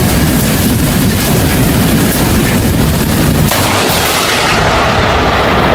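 Tsunami footage: loud, continuous rushing and crackling noise of wind and surging water on the microphone, changing character about three and a half seconds in.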